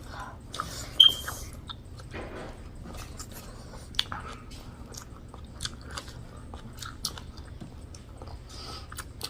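A person chewing and biting a mouthful of pork, rice and greens, with many short wet mouth clicks and smacks. A sharper click with a brief high ring comes about a second in.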